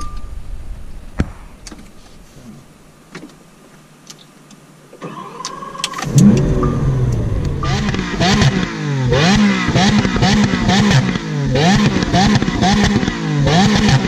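Lamborghini Aventador's V12 being started: after a few quiet clicks, a starter whine begins about five seconds in and the engine catches with a loud flare a second later. It is then revved again and again, the pitch rising and falling in short blips about once a second.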